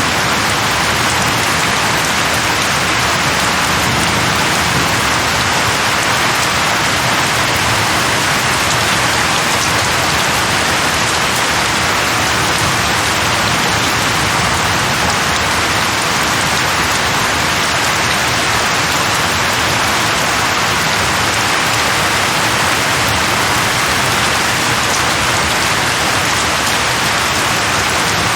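Steady heavy rain falling, an even unbroken hiss of rain on surfaces.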